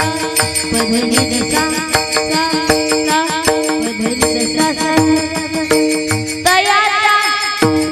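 Kirtan accompaniment: held harmonium chords with drum strokes and small hand cymbals keeping a steady rhythm. About six and a half seconds in, a wavering, bending melodic line enters over it.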